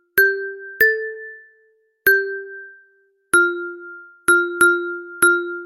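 Struck tuned percussion ringing: seven separate notes on a few close pitches, each sharp at the start and fading away, at an uneven pace.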